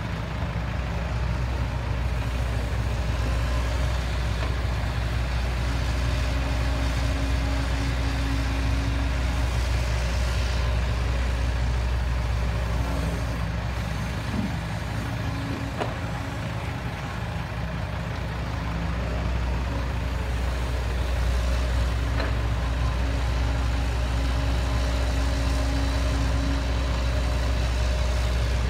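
Heavy diesel engine running steadily, a low drone with a humming tone above it that fades out for a few seconds about halfway through and then returns.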